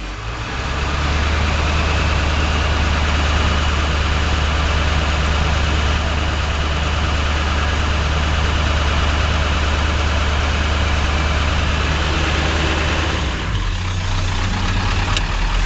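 Ford 7.3L Power Stroke V8 turbodiesel idling with its exhaust back pressure valve engaged: the engine note turns louder and deeper about half a second in, holds steady, then drops back near the end as the valve releases.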